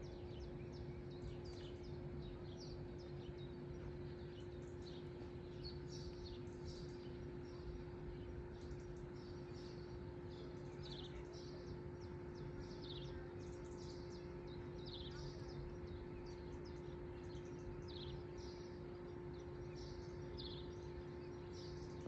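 Small songbirds chirping: short high calls repeating every second or so, over a steady low hum and a faint background rumble.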